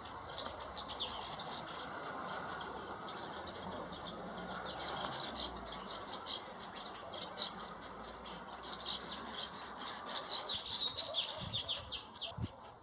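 Many birds calling together in quick, short chirps, busiest near the end, over a steady background hiss.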